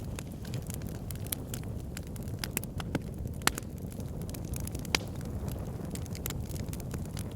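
Wood fire in a backyard fire pit burning and crackling: a steady low rumble of flame under scattered snaps, with two sharper pops, one about halfway and one a second and a half later.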